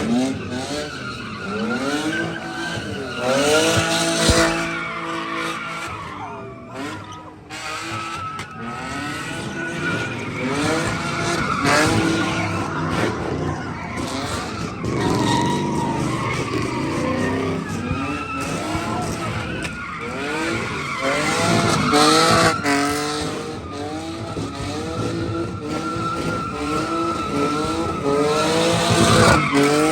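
Car engine revving up and down again and again while its tires squeal, as a car is drifted or spun in a parking lot.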